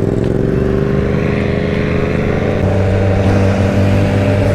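Motorcycle engine running steadily, its pitch shifting about two and a half seconds in.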